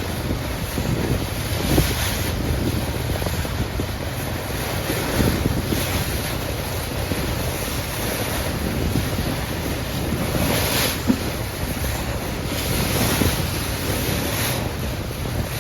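Sea water rushing and splashing along a moving ship's bow, with wind buffeting the microphone and a few brief louder surges.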